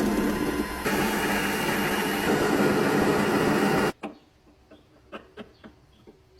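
A small electric motor, likely a power tool used on the churn, runs steadily at full speed and cuts off abruptly about four seconds in. It is followed by a few light taps or knocks.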